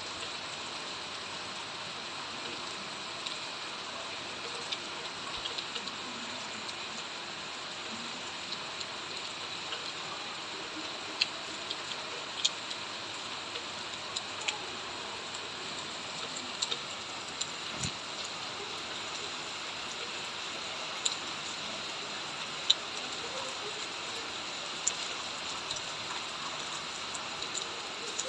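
Steady rain hiss, with scattered sharp ticks of individual drops hitting close surfaces and one soft low thud midway.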